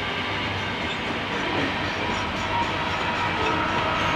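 Freight train cars rolling past, a steady rumble and rattle of steel wheels on the rails.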